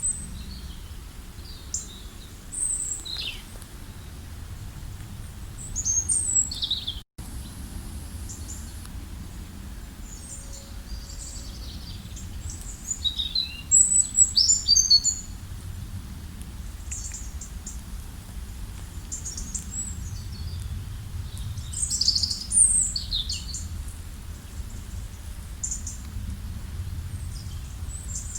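Wild songbirds chirping and calling: many short high chirps and quick trills from several birds, busiest about halfway through and again near the end, over a steady low background rumble. The sound drops out completely for an instant about seven seconds in.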